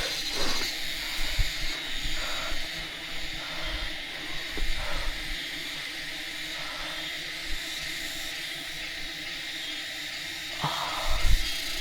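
Steady high-pitched hiss, with a few faint knocks and rustles and a brief louder burst of noise near the end.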